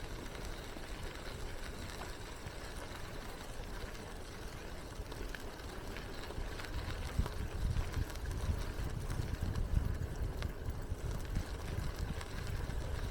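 Bicycle being ridden: a low, steady rumble of tyres rolling on the path and air moving past, louder from about halfway through, with a few faint clicks.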